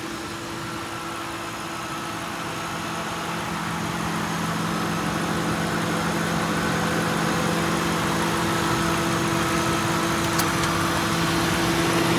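1997 Lincoln Town Car's 4.6-litre V8 idling smoothly and steadily with the hood open, slowly growing louder.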